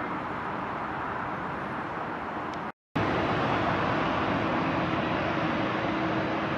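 Jet airliner engine noise, a steady rumbling roar. It drops out for an instant just under three seconds in, then comes back a little louder with a steady low hum in it.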